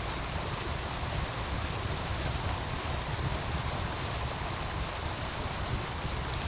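Wood fire crackling with scattered sharp pops over the steady rush of a meltwater stream.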